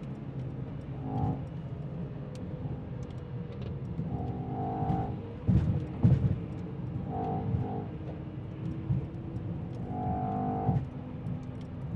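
Car under way heard from inside the cabin: steady engine and road rumble with two loud surges of the engine about halfway through, and music playing over it.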